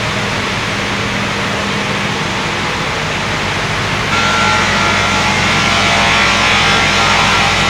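Multi-blade circular sawmill running steadily with a loud mechanical whine. About four seconds in the sound abruptly gets louder and brighter, with a higher steady tone added.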